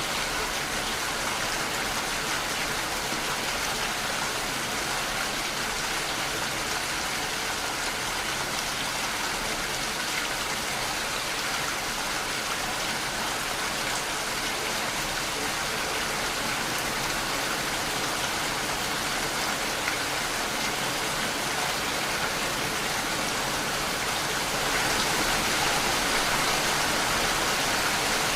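Steady rain falling and pattering on surfaces, a little heavier near the end.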